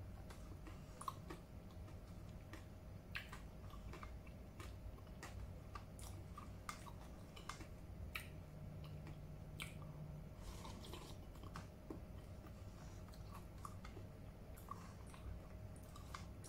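Close-up eating sounds of a person chewing spoonfuls of chicken rice porridge, with many small sharp clicks of mouth and spoon scattered through it. A faint steady hum runs underneath.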